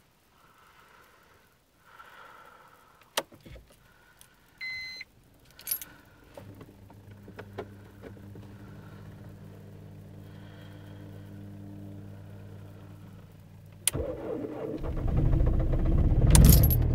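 Key and switch clicks and a short dashboard chime as the ignition of a BMW E46 320d is switched on, then a faint steady hum. About fourteen seconds in the starter cranks and the four-cylinder common-rail diesel fires, running loud and rough on a hard cold start after days in deep frost.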